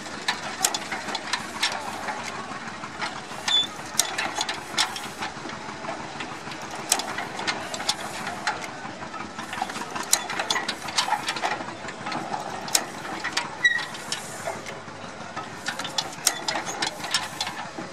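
Antique tractor engine running at idle, with many sharp, irregularly spaced clicks and pops over a steady noisy drone.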